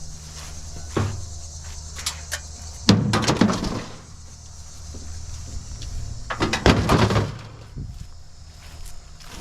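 Scrap metal clanking and rattling as pieces are tossed into a pickup truck bed, in two clattering bursts about three and about six and a half seconds in, after a single knock about a second in. A steady low hum runs underneath.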